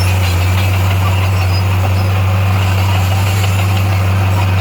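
Bulldozer's diesel engine running steadily, a loud, unchanging low drone.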